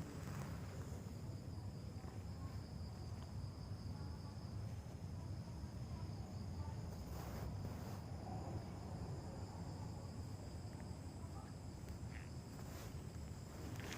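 Steady, high-pitched chirring of insects over a low rumble, with a couple of faint soft knocks.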